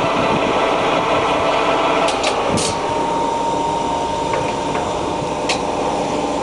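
Harrison M500 centre lathe's geared headstock running at 500 rpm in its high range: a steady mechanical gear-train noise, with a whine that comes in about three seconds in and a few sharp clicks.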